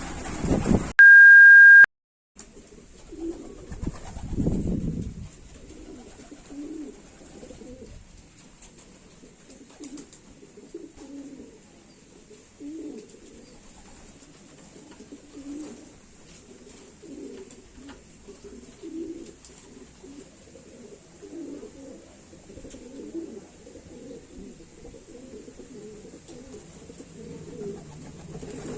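A loud steady beep lasting about a second near the start, cut off sharply, then racing pigeons cooing over and over, with a louder low rustle around four seconds in.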